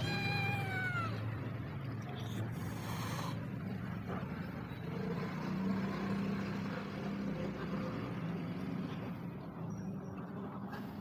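A street cat meows once, a single call of about a second that falls slightly in pitch, over a steady low hum.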